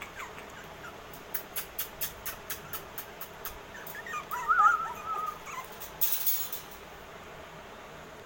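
Pomeranian puppy whimpering: one short, wavering, high-pitched whine about four seconds in. Before it there is a run of quick light ticks, and after it a brief rustle.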